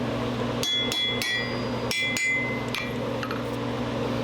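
Metal-on-metal clanks at a blacksmith's anvil: about six sharp strikes, several of them ringing, bunched in the first three seconds over a steady low hum.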